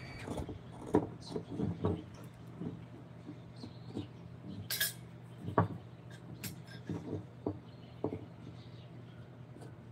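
Irregular taps, knocks and light metallic clinks of small hand tools being handled and set down, with one sharper clink a little under five seconds in, over a steady low hum.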